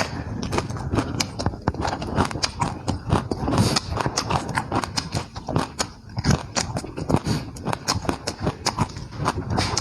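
A person chewing food with the mouth open close to the microphone: a quick, irregular run of wet smacks and clicks.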